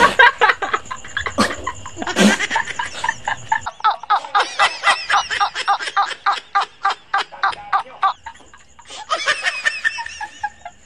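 A man laughing hard in quick repeated bursts, about three to four a second, with a short lull and then another round of laughter near the end.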